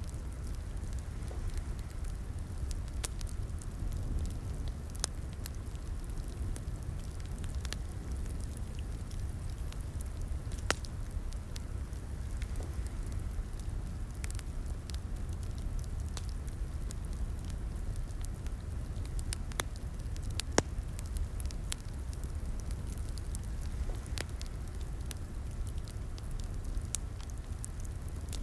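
Wood fire crackling in a fireplace: a steady low rumble of flames with scattered sharp pops and snaps.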